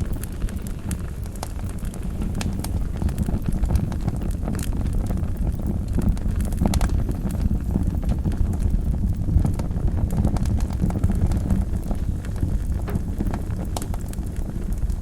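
Wood fire burning in a fireplace: a steady low rumble of flames with frequent crackles and scattered sharper pops.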